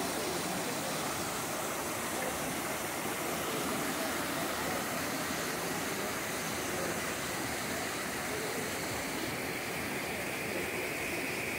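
Steady rushing of a mountain waterfall, falling water pouring without a break.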